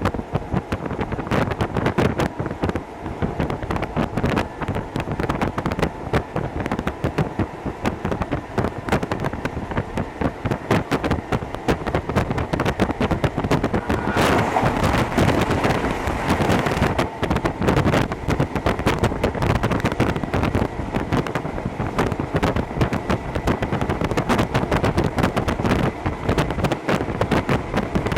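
Hokuso Railway 7260 series electric train running, heard from inside the cab-end window: a steady running noise full of dense rattling clicks, with wind on the microphone. About halfway through, a louder hissing stretch carrying a faint steady tone lasts a few seconds.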